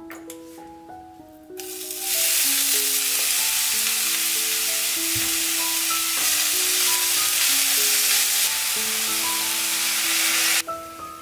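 Soaked dried greens sizzling loudly as they fry in hot oil in a stainless steel pan, starting about a second and a half in and cutting off abruptly near the end. A soft piano melody plays throughout.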